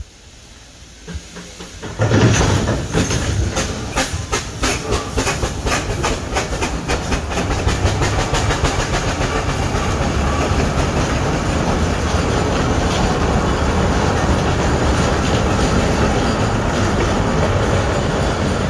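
Train on rails, starting suddenly about two seconds in: wheels clicking over rail joints, the clicks coming faster and faster, then blending into a steady rumble.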